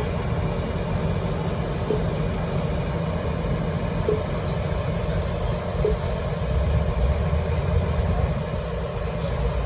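A large vehicle's engine, most likely a bus, running steadily with a low rumble that swells slightly in the second half. Faint short chirps sound about every two seconds.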